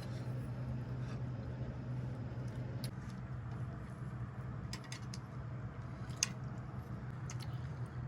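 Someone eating: a few scattered light clicks and smacks, several of them a second or more apart, over a steady low hum.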